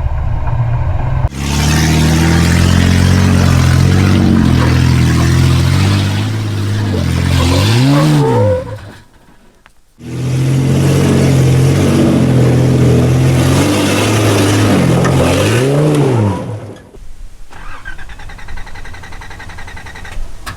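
Nissan GQ Patrol's TB42 carburetted petrol straight-six with no exhaust fitted, working hard at high revs as it climbs, with the revs sweeping up and back down near the end of each of two runs; it cuts off abruptly about nine seconds in, comes back loud, then drops to idle near the end.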